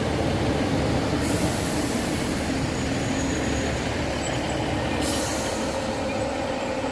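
A train running along the track, a steady rumble with faint high squeals from the wheels. The hiss of the train grows louder from about a second in and eases off around five seconds in.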